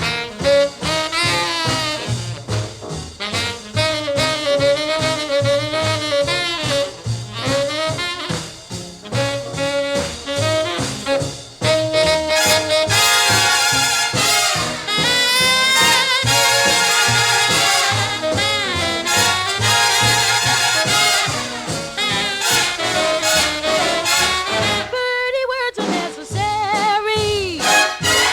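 Instrumental break of a swing jazz big band: the brass and reed sections play over a steady bass-and-drums beat, with the horns swelling fuller and brighter through the middle. The band thins briefly near the end before the vocal returns.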